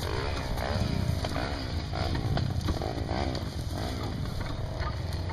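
Honda Tornado 250's single-cylinder four-stroke engine running on a dirt trail, its pitch rising and falling repeatedly as the throttle is worked.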